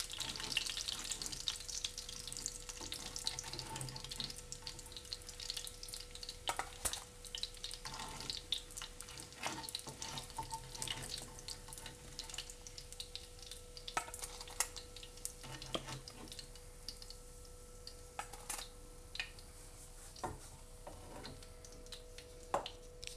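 Breaded chicken cutlets sizzling in hot oil in a frying pan, the sizzle strongest at first and thinning out as they are lifted out. Scattered clicks and knocks of a plastic spatula against the pan and a steel pot run through it.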